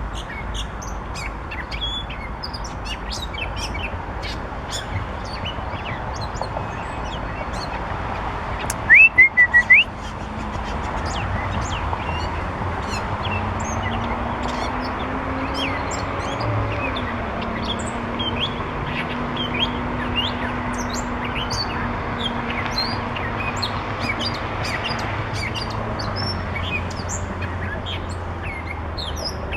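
Northern mockingbird singing among many short bird chirps, with one loud, close phrase of about four quick repeated notes about nine seconds in. A low steady hum runs underneath from about twelve seconds on.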